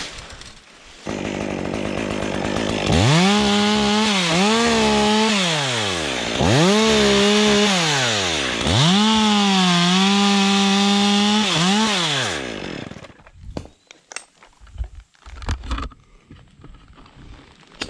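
Stihl 201 top-handle chainsaw running, revved to full throttle in three long pulls, its pitch sagging as the chain bites into wood and climbing again between pulls. It drops off and stops about twelve seconds in, leaving faint knocks and rustling.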